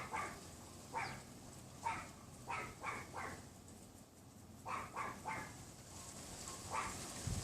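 A Pomeranian yapping: about a dozen short, high-pitched barks, mostly in quick pairs and triples, spaced roughly a second apart.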